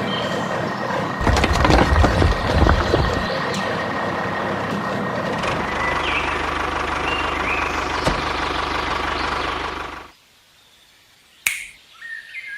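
A motor running steadily, with a heavier low rumble from about one to three seconds in, then cutting off suddenly near the end, followed by brief sounds.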